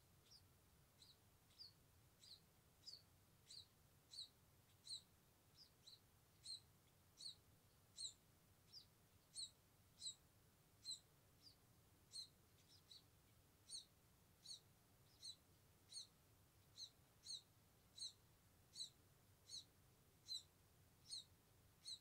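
Nestling scaly-breasted munias peeping faintly in the nest: short high chirps repeated evenly, about one and a half a second.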